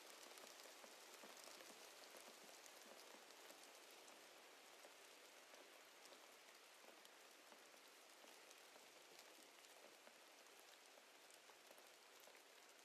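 Faint steady rain with many small drops pattering, growing slowly quieter; no thunder.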